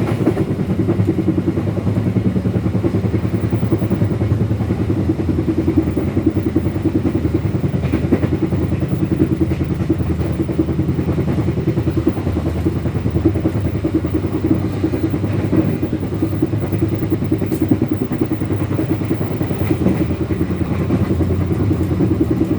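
Passenger train running on the rails, a steady loud rumble heard from inside the carriage, with a brief click about three-quarters of the way through.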